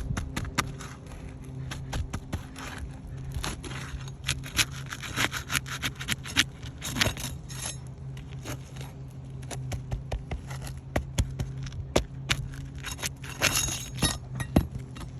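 Irregular scraping, crackling and sharp clinks of hand tools working a roofing shingle during a repair, with a louder run of clatter near the end. A steady low hum runs underneath.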